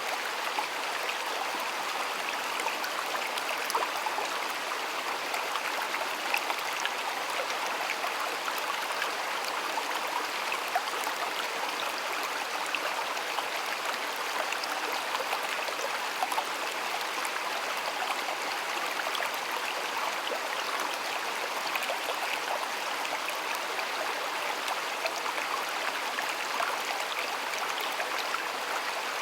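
Shallow stream water flowing and babbling steadily, with small splashes and droplet ticks scattered through it.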